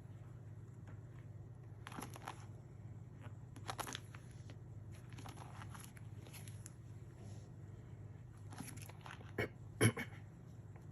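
Scrapbook album pages being turned and handled, rustling and crinkling several times, with two sharp knocks near the end. A steady low hum runs underneath.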